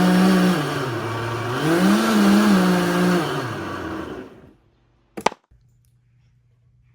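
Small kitchen blender running with milk in it: a motor whir that sags in pitch about a second in, picks back up, then slows and stops about four seconds in. A short sharp click follows a second later.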